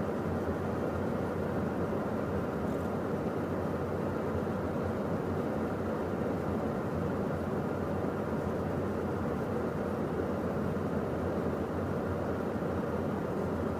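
Steady cockpit noise of a Beechcraft Premier 1A business jet in the climb: an even rush of airflow and engine noise that does not change.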